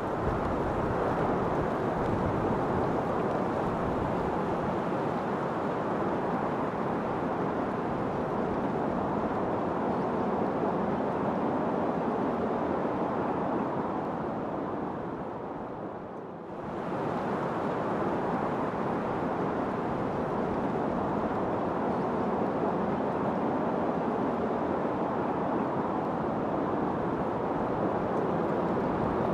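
Steady rushing wind noise that eases into a brief lull a little past halfway, then picks back up to its earlier strength.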